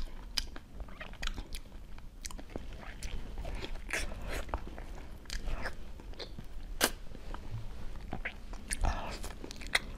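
Close-miked eating of soft durian flesh: wet chewing and lip smacks with a scatter of short sharp mouth clicks, one louder click about seven seconds in.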